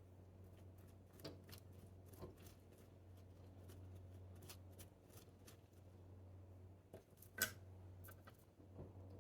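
Scattered soft clicks and snips from hands and small tools working on a succulent planting, sharpest about seven and a half seconds in, over a steady low background hum.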